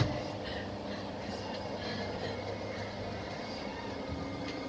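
Train running along the track: a steady rumble of wheels on rails with faint steady hums, and one sharp knock right at the start.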